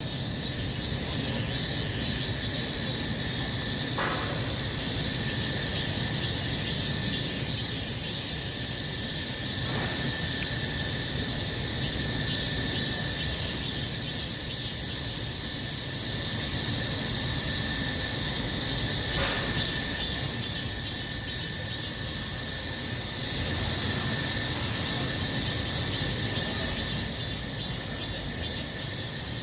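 Cicadas singing in a steady, dense chorus of high-pitched buzzing with a fast pulsing texture, starting abruptly at the outset.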